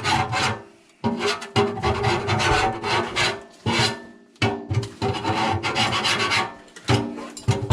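Repeated hand scraping or scrubbing strokes on a hard surface, cleaning it off. The strokes come in quick runs with short pauses between them.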